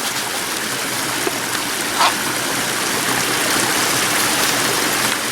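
A small creek waterfall running steadily, a constant splash and hiss of falling water.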